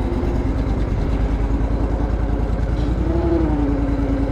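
Engine running at a steady idle, with an even, rapid pulse of firing beats.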